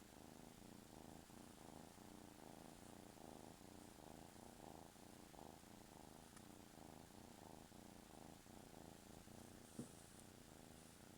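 Kitten purring steadily and faintly, with one short knock near the end.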